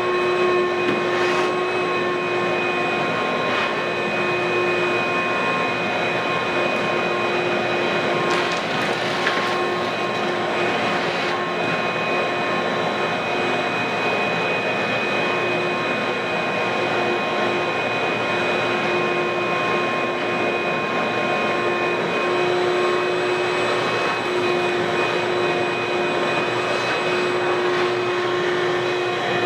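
Electric floor-cleaning machine running steadily, a continuous motor noise with a steady high whine over it.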